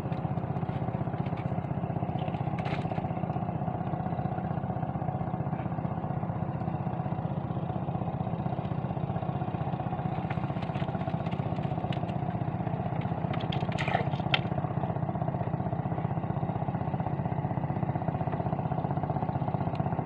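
A small engine running steadily with a fast, even pulse, and a few faint clicks and knocks on top about 3, 10 and 14 seconds in.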